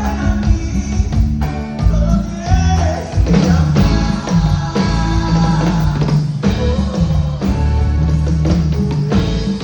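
Live cumbia band music: electric guitar melody over bass and drums, loud and continuous.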